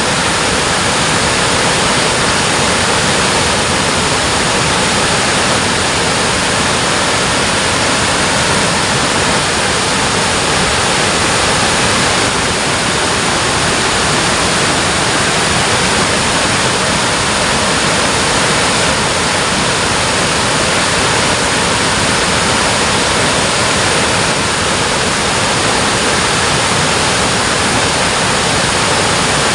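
Water pouring over a dam: a loud, steady rush without pause.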